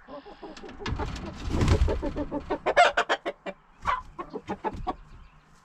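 Hens clucking in the coop, a run of short, sharp calls, with a rustling scuffle about a second in.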